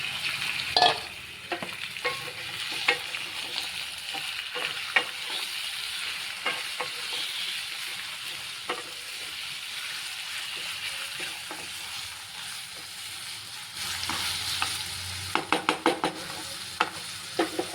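Chicken pieces frying with onions in mustard oil in a pan, sizzling steadily while a spatula stirs them, clicking and scraping against the pan. Near the end comes a quick run of spatula knocks.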